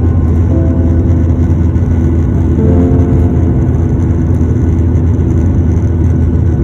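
Steady low rumble of an airliner in flight, with faint background music of held notes drifting over it.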